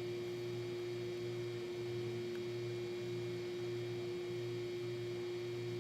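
A steady hum: one constant pitched tone with a fainter low buzz beneath it.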